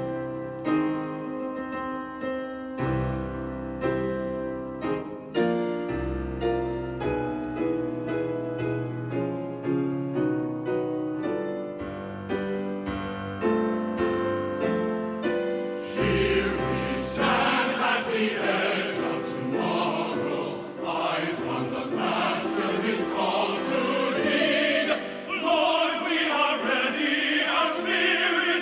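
Church music: piano playing alone for the first half, then a choir comes in singing over it a little past the middle.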